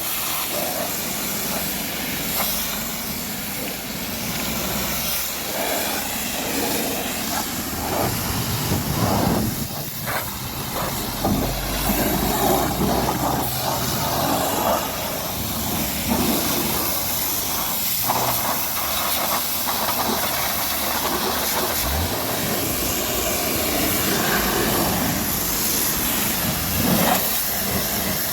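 High-pressure washer spraying water onto a car's body, a steady hiss that shifts a little as the jet moves over the panels.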